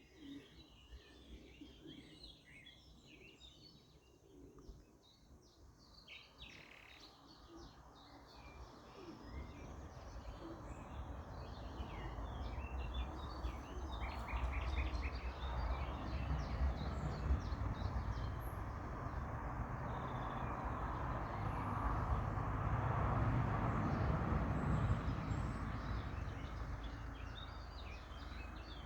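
Mixed songbirds chirping and singing. A low, even noise swells in from about a third of the way in, is loudest past the middle, and eases off near the end.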